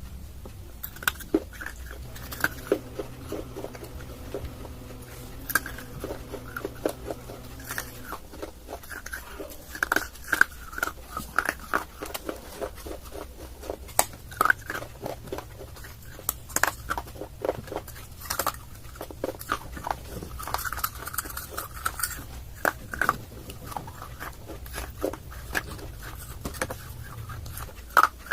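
Pieces of dry clay being bitten and chewed close to the microphone: irregular sharp crunches and cracks, several a second, over a faint low hum.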